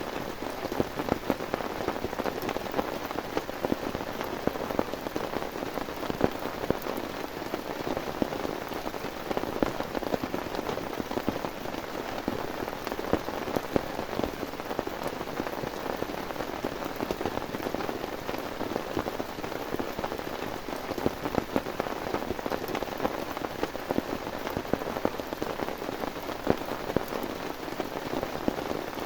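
Steady heavy rain, with many close drops striking a surface as dense small ticks and an occasional louder hit.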